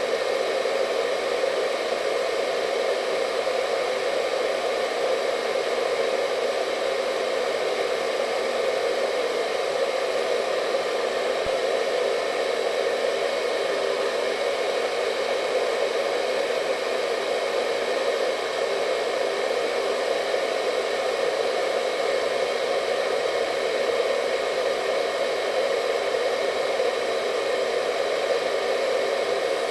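Hair dryer running steadily without change: an even rush of blown air with a faint steady whine from the motor above it.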